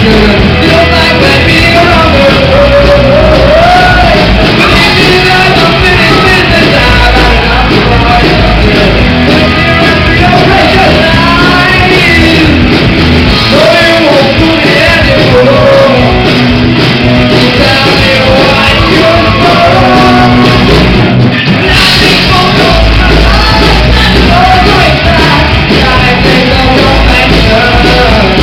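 Live rock band playing loud, with sung and shouted vocals over driving guitars and drums. There is a brief break in the low end about three quarters of the way through.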